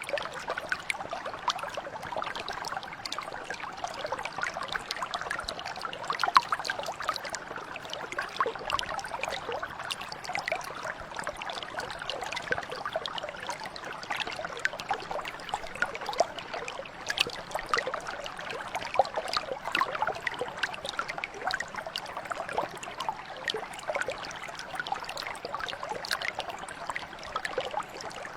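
Shallow mountain brook flowing steadily, water trickling and splashing over stones with many small bright splashes.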